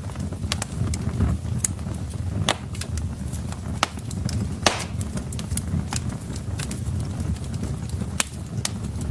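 Wood fire burning in a fireplace: irregular sharp crackles and pops over a low steady rumble of flames, with one louder pop near the middle.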